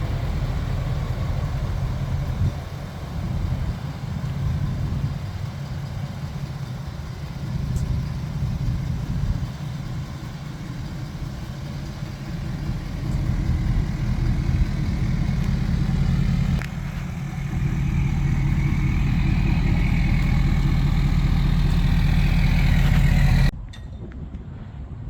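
Ford F-250's 6.7-litre Power Stroke V8 turbo-diesel idling steadily, cutting off suddenly near the end.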